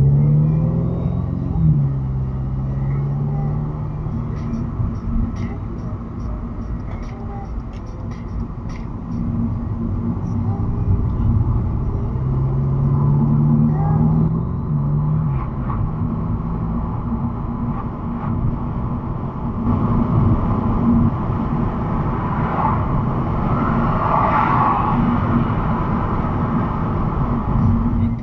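Audi S3's turbocharged four-cylinder engine and tyre and road noise heard from inside the car while driving, the engine pitch rising as it accelerates near the start and again about halfway through. A run of light clicks comes several seconds in.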